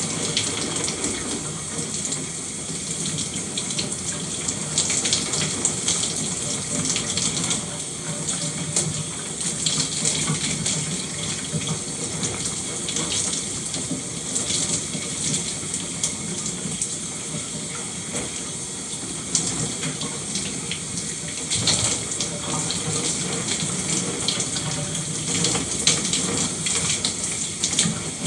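Shower running steadily, water spraying and splattering with many small irregular splashes.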